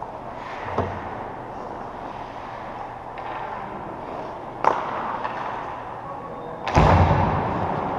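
Sharp knocks in an echoing arena, one about a second in and another near the middle, then a loud heavy thud near the end that rings on, over a steady hum of background noise.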